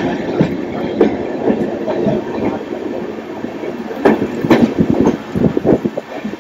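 Passenger train running on the rails, with irregular knocks and clatter from the wheels that come quicker and closer together over the last second and a half.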